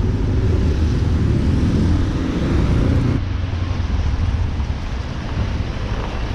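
Yamaha Lander 250's single-cylinder engine pulling with a rising note as the bike accelerates, over road and wind noise. About three seconds in the engine note drops away suddenly, leaving a lower, steadier rumble.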